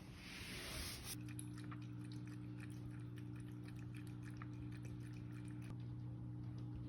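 A cat lapping water from a dish: a run of quick small wet clicks, about three to four a second, over a steady low hum. A short rush of noise comes in the first second.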